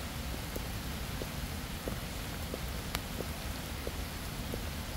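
Steady rain falling, with a short tick repeating evenly about every two-thirds of a second and one sharp click about three seconds in.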